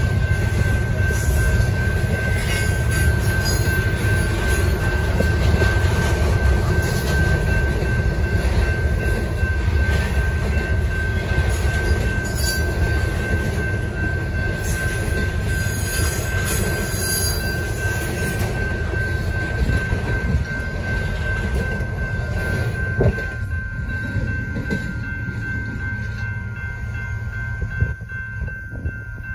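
Double-stack intermodal freight cars rolling over a grade crossing: a heavy, steady rumble of wheels on rail with some wheel squeal, over the crossing's warning bell ringing steadily. About 23 seconds in, the last car clears with a knock, the rumble falls away, and the bell rings on.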